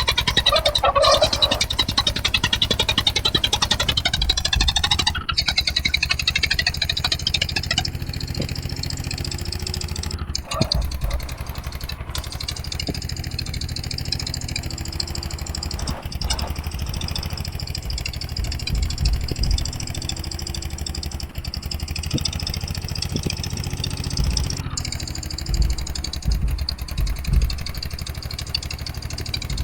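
Eicher 241 tractor's single-cylinder diesel engine running steadily with a low, even beat, a little louder in the first few seconds.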